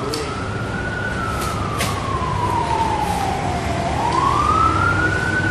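Emergency vehicle siren sounding a slow wail: one tone climbs for about a second, falls slowly for nearly three seconds, then climbs again near the end. A few sharp clicks sound in the first two seconds.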